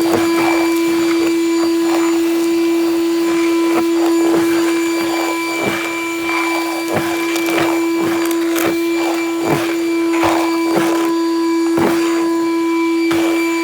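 Ridgid 6-gallon WD6000 wet/dry shop vac running loud and steady, its motor giving a constant whine. Frequent short clicks and rattles come from leaves and grit being sucked up the hose off the driveway.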